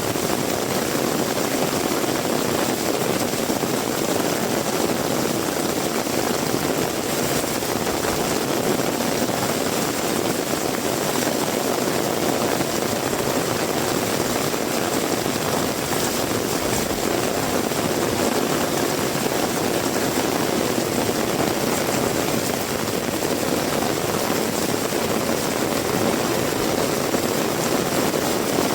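Heavy rain pouring steadily, an even rushing hiss that does not let up.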